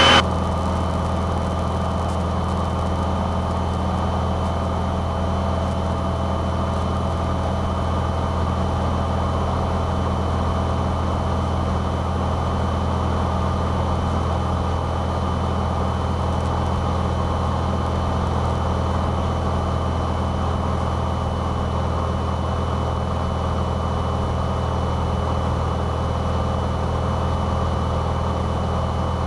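Cessna 172's piston engine and propeller droning steadily in cruise, heard from inside the cabin, with a thin steady high-pitched whine over the drone.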